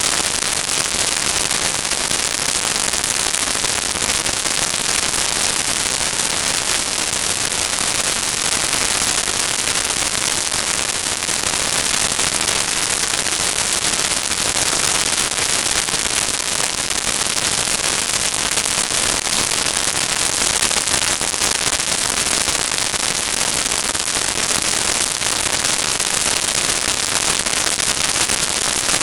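Steady, dense crackling noise with no clear engine note or separate crash impacts.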